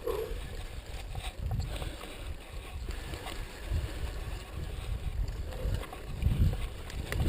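Wind buffeting the microphone as a low, uneven rumble, with scattered knocks and rattles from a mountain bike riding over rough trail.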